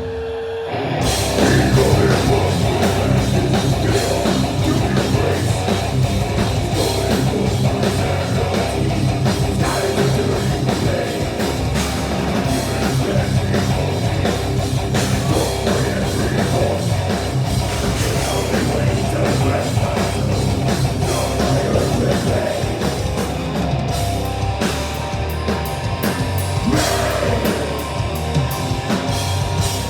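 A doom-death metal band playing live through a PA, with heavy distorted guitars, bass and a full drum kit. The band comes in at full volume about a second in.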